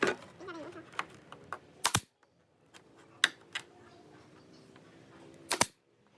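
A handful of separate sharp clicks and knocks, typical of wood pieces and hand tools being handled, spaced irregularly over several seconds, with a faint steady hum between them.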